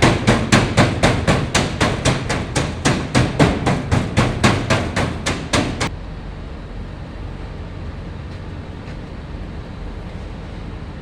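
Rapid, evenly spaced knocking strokes, about four a second, that stop abruptly about six seconds in, leaving a steady low hum.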